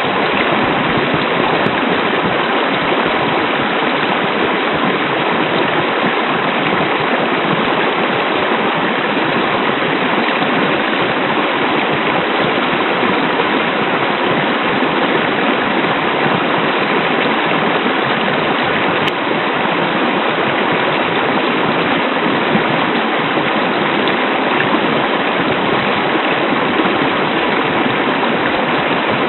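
Hot-spring waterfall: a steady rush of falling, splashing water.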